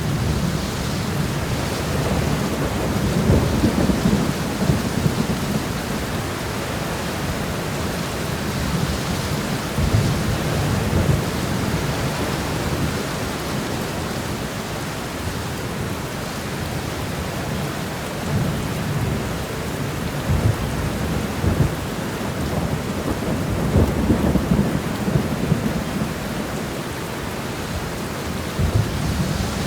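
Steady rain shower hissing, with low thunder rumbling in and out several times.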